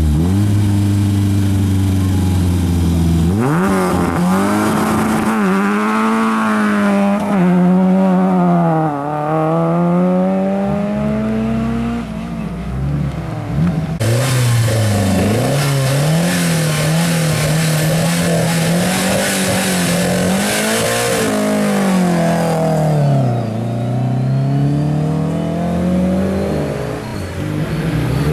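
Classic rally car engines revving at the start line, the throttle blipped again and again so the pitch swings up and down. After a change of car partway through, the second car's engine rises in pitch near the end as it pulls away.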